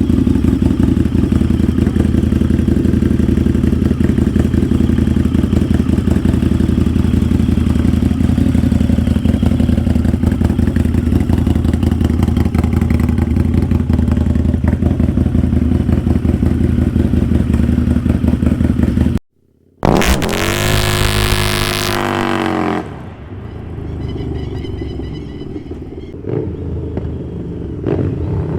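Harley-Davidson motorcycle V-twin engine held at high, steady revs for a long burnout. It breaks off suddenly, then after a moment an engine revs hard and falls away over a couple of seconds, settling to a quieter steady run.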